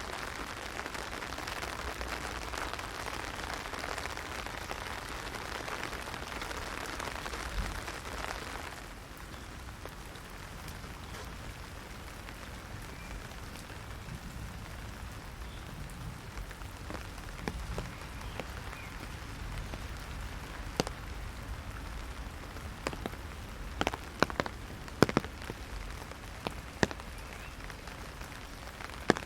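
Heavy rain drumming on an umbrella: a dense steady hiss that eases about nine seconds in. In the second half, single large drops land as sharp taps, clustered a few seconds before the end.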